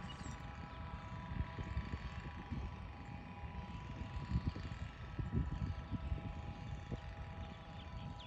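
A motor vehicle running steadily: a constant whine over a low, uneven rumble, with a few faint bird chirps.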